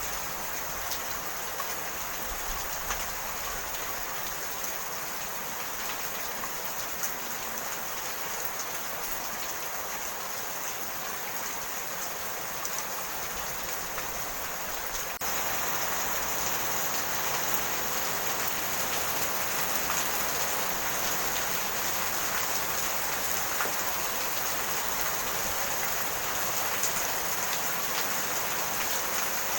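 Steady rain falling, with a constant patter of drops. The rain gets a little louder about halfway through.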